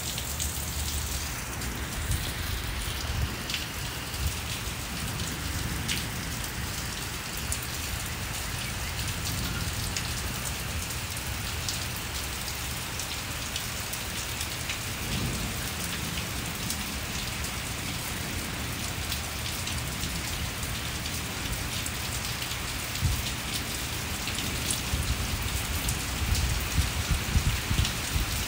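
Steady rain falling on a brick patio and garden plants, with close drops ticking. A low rumble runs underneath, and a few louder low thumps come near the end.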